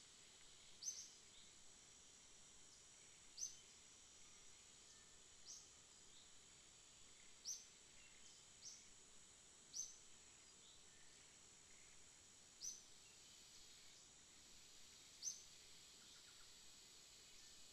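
Near silence broken by a bird's short high chirp, repeated about every two to three seconds, over a faint steady high whine.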